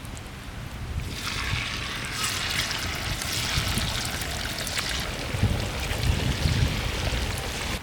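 Marinated chicken pieces deep-frying in hot oil in a kadai: the oil starts sizzling about a second in and keeps sizzling, with a low rumble underneath.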